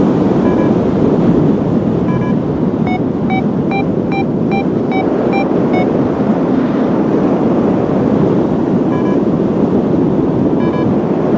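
Strong wind rushing over the microphone in flight, with a paragliding variometer beeping through it. There are single beeps now and then and a quicker run of about eight beeps a little over halfway through the first half, the vario signalling lift.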